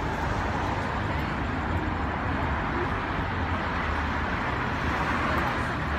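Steady outdoor background noise of road traffic, an even rush without distinct events.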